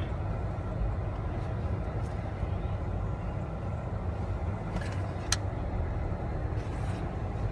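Chevrolet HHR running with a steady low rumble and a few faint clicks, one sharper about five seconds in. The owner hears a blinker-like clicking when turning even though the turn signal is off.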